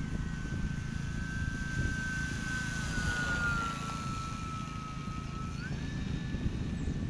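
Electric motor and propeller of an RC model airplane whining steadily in flight. The pitch sags slightly midway and steps up again near the end, with wind rumble on the microphone underneath.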